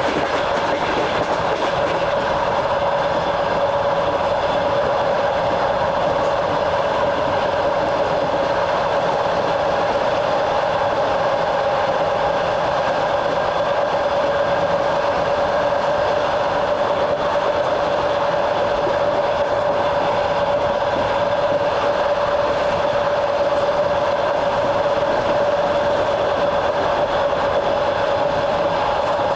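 Train running at a steady speed, its wheels rolling on the rails, with a steady tone over the rolling noise.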